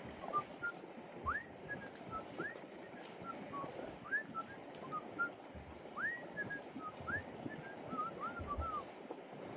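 A series of clear whistled notes: quick upward slurs alternating with short single notes, about one phrase a second, over faint outdoor background.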